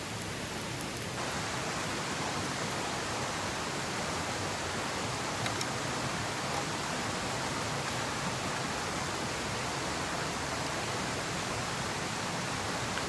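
Steady rushing of a stream's flowing water, an even hiss, a little louder and brighter from about a second in.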